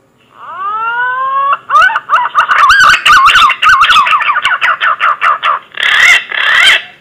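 Green pigeon (punai) song used as a hunting lure call. One long whistle rises and then levels off, followed by a fast run of warbling whistled notes and two louder notes near the end.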